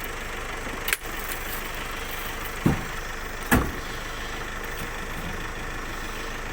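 A vehicle engine idling steadily, with two heavy thumps a little under a second apart near the middle.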